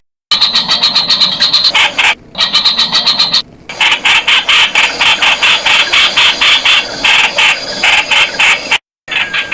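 Streak-eared bulbul (Blanford's bulbul) calling in a rapid run of short, sharp notes, about five a second, broken by a few brief pauses and cut-outs.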